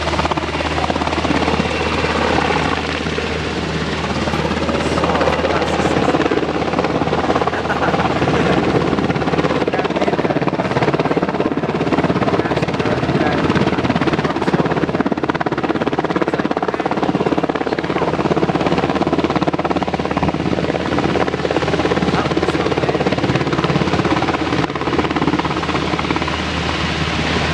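A helicopter running steadily, its engine and rotor noise continuous with little change.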